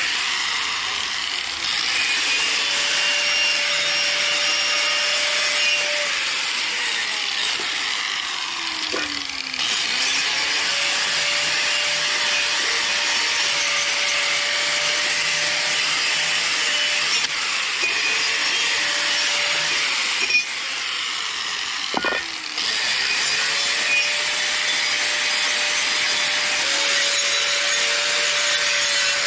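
Handheld electric power tool running against metal, with a steady abrasive scraping hiss; its motor pitch sags as it is pressed into the work. It winds down briefly about nine seconds in, with a click and brief drop about 22 seconds in, then restarts each time.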